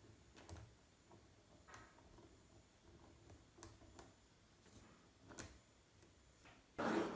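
Small magnetic balls clicking together one at a time, a few scattered sharp clicks, then a louder short clatter near the end as several balls snap on at once.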